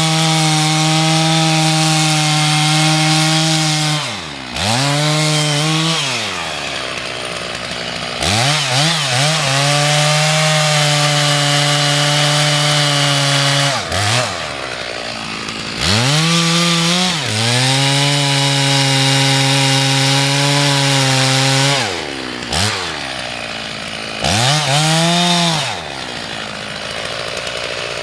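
Two-stroke chainsaw cutting wood in several long full-throttle runs, the engine dropping back toward idle and revving up again between them, about four seconds in, around fourteen and twenty-two seconds, and near the end.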